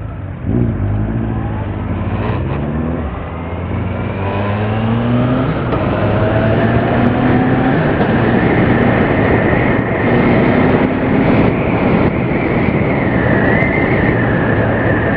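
Suzuki GSX650F inline-four motorcycle engine pulling away and accelerating, its pitch rising and dropping back several times as the rider shifts up through the gears. From about six seconds in it settles into steady cruising under a growing rush of wind noise.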